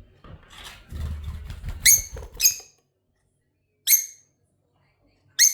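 Lovebird giving four short, shrill chirps, spaced unevenly: two close together about two seconds in, one near four seconds, one near the end. Low rustling noise runs under the first half.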